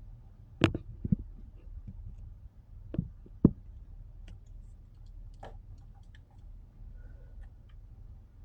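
A few sharp clicks and knocks, four of them louder, in two pairs about two seconds apart, with fainter scattered ticks over a steady low rumble.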